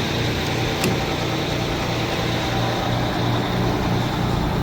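1988 Amertek 4x4 fire truck's engine idling steadily, a low even hum, with a single small click about a second in.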